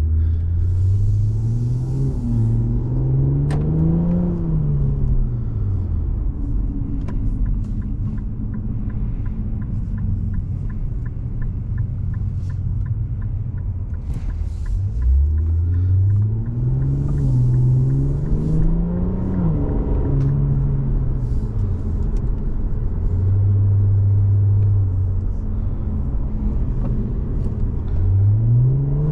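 Infiniti Q60 Red Sport's 3.0-litre twin-turbo V6 running through the Infiniti Performance Exhaust as the car accelerates. The revs climb and fall twice, with a steadier stretch between, and climb again near the end. A fast, faint ticking runs through part of the middle.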